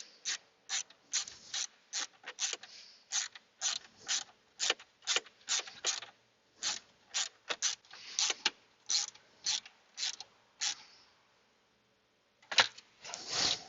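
Hand ratchet clicking in quick back-strokes, about two to three a second, as a 7 mm bolt is run in. The clicking stops about eleven seconds in, and a few more clicks follow near the end.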